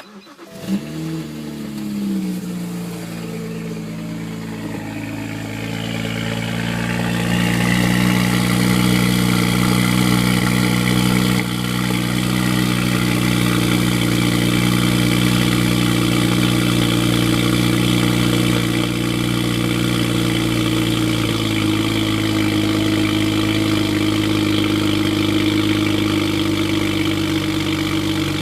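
BMW N54 twin-turbo inline-six cold-starting: it catches within a second with a brief flare of revs, then settles into a steady fast cold idle that steps down slightly about three-quarters of the way through. The owner posts this cold start as a sputter.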